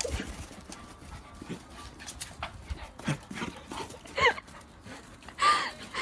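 A dog whining, a few short high-pitched cries that bend up and down, the loudest near the end.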